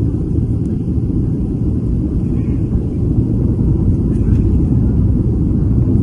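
Airliner cabin noise during landing: a steady low rumble of engines and airflow, growing slightly louder about halfway through.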